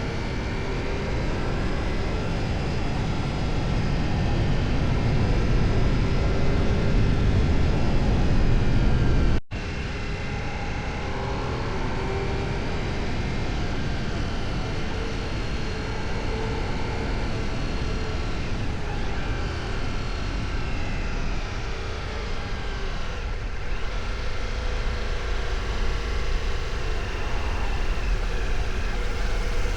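Ducati Multistrada V4's V4 engine running under way on the road, its note building over the first nine seconds. It cuts off abruptly about nine seconds in, then runs on, rising and falling in pitch.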